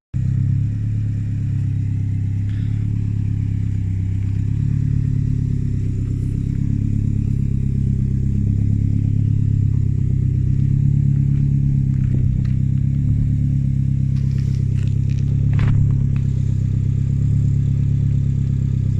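1987 Saab 900 Turbo's turbocharged four-cylinder engine running steadily through a 3-inch exhaust with its extra silencer removed.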